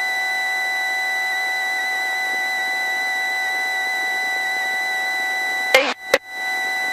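Helicopter idling during its post-landing cool-down, heard through the headset intercom: a steady hiss with a constant high whine. Near the end the sound cuts out briefly twice with a click.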